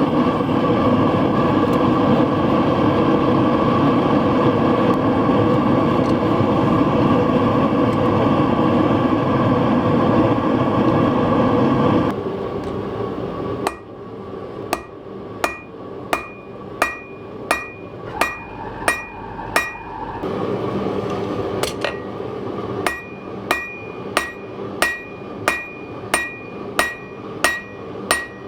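A gas forge's burner runs with a steady loud rush for about twelve seconds, then drops away. A hammer then strikes steel on an anvil about once a second, each blow ringing, with a short pause midway before the blows resume.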